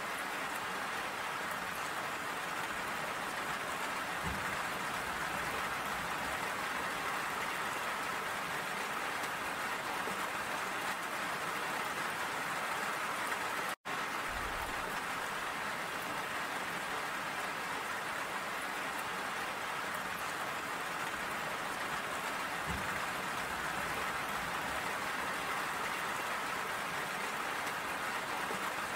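Steady rain falling and pattering on surfaces, an even hiss of many drops. It cuts out for an instant about halfway through.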